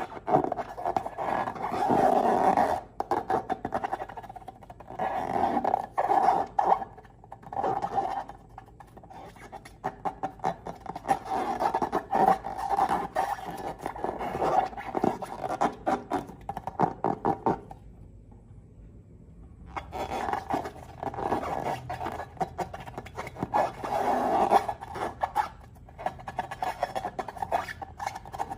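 Slime being squeezed and kneaded by hand: dense crackling and clicking, with a pause of about two seconds about two-thirds of the way through.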